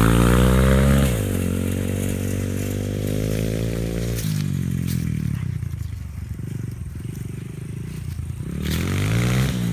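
Dirt bike engine revving, then dropping back about a second in and running steadily. About four seconds in it falls to a low, uneven putter, and it revs up again near the end.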